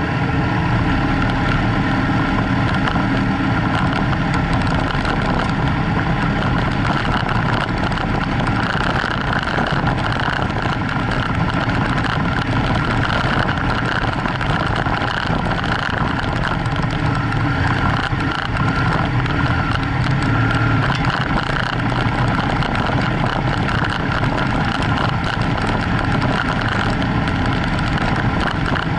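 BMW F800GS's 798 cc parallel-twin engine running steadily while the bike rides along a gravel dirt track, with tyre and wind noise.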